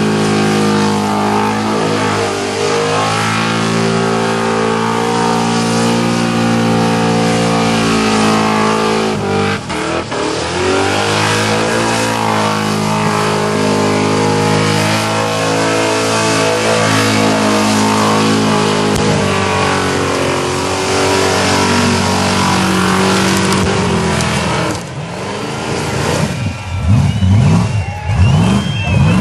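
Holden VK Commodore V8 held at high revs through a burnout, its rear tyres spinning with a steady hiss under the engine note. The revs dip briefly about a third of the way in, then hold again; near the end the engine is blipped, revs swinging up and down several times in quick succession.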